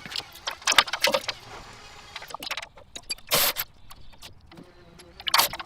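Workshop clatter from hands-on work on the car: quick irregular clicks, clinks and knocks of tools and parts, with two short bursts of hiss about three and a half and five and a half seconds in.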